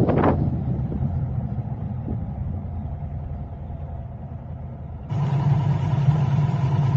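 Car rumble in city traffic. Wind noise on the microphone dies away right at the start, and the low rumble grows quieter over the next few seconds. About five seconds in, the sound jumps abruptly to a louder, steadier hum.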